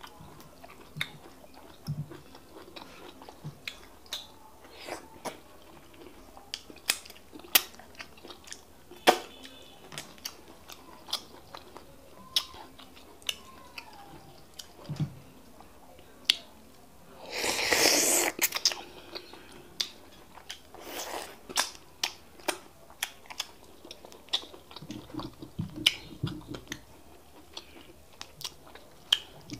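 Close-miked wet mouth smacking and chewing of fufu and bitter leaf soup eaten by hand, sharp smacks coming at irregular intervals. A little past halfway there is a louder rush of noise lasting about a second and a half, with a fainter one soon after.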